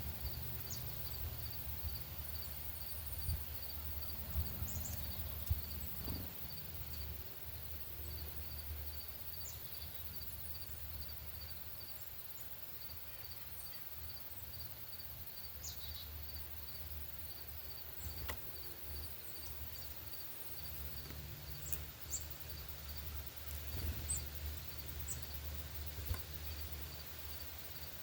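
Outdoor ambience with an insect, likely a cricket, chirping steadily about three times a second. Short, high bird chirps are scattered through it, over a low steady rumble.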